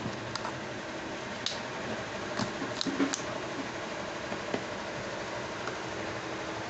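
Steady background hum, like a fan or ventilation, with several light clicks and clinks in the first half.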